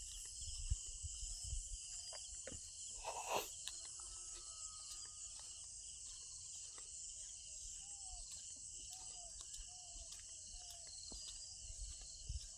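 Steady high-pitched insect chorus, with a few short knocks and one louder brief sound about three seconds in.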